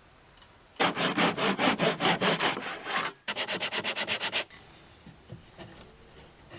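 A hand tool working wood with rapid back-and-forth strokes, about six a second at first, then after a brief pause faster, about nine a second, stopping about two seconds before the end.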